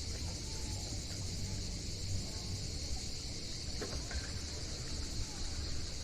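A steady, high insect chorus with a low rumble underneath.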